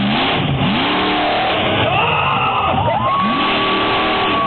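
Methanol-fuelled monster truck engine revving up and down several times, then held at high revs near the end.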